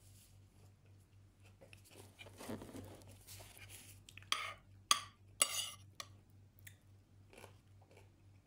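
Close-up eating sounds: chewing, with three sharp crunches between about four and five and a half seconds in and a few softer clicks after.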